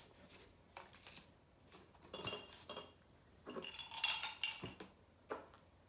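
Drawing materials clinking and rattling as they are put away in a box. There are two short bursts of clatter, about two seconds in and again around four seconds, and a single click near the end.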